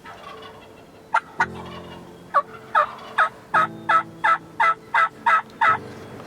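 Wild turkey yelping: a loud series of about a dozen evenly spaced yelps, about three a second, after two single notes.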